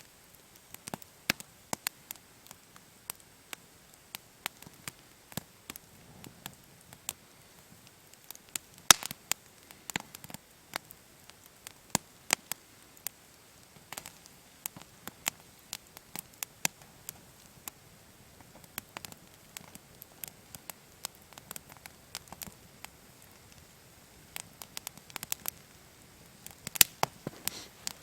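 Wood campfire crackling, with irregular sharp pops of varying loudness over a faint hiss.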